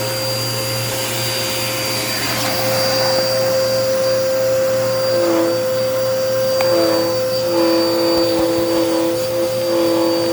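Dirt Devil Power Max vacuum cleaner running steadily with a constant whine. From about halfway, a second, lower tone comes and goes in it.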